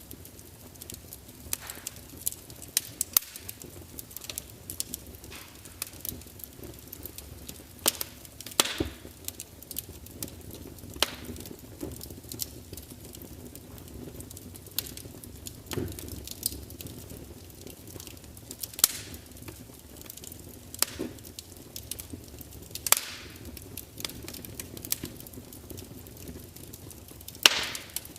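Wood fire burning in a large open fireplace: a steady low rumble of flames with irregular sharp crackles and pops, several louder snaps scattered through, as the burning logs crackle and spit.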